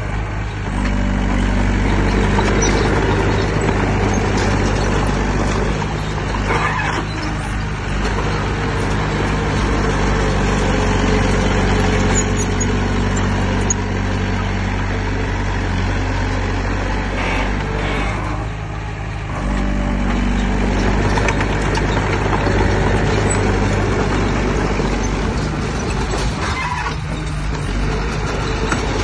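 Heavy diesel earthmoving machinery running under steady load, its engine note holding low and even and easing off briefly twice, about two-thirds of the way through and again near the end.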